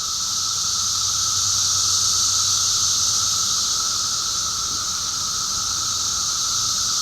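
Recorded cicada chorus: a dense, steady, high shrill drone. It fades up over the first couple of seconds, then holds.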